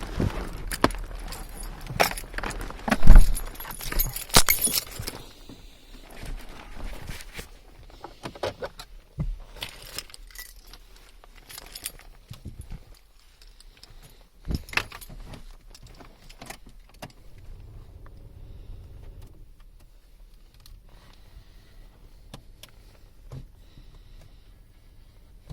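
Keys jangling among a run of clicks and knocks, busiest and loudest in the first five seconds, then scattered knocks.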